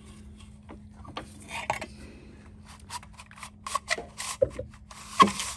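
Rubbing and rasping with scattered sharp clicks as the newly fitted nylon starter rope is worked through the recoil starter of a Honda mower engine, busier in the second half with one loud click near the end.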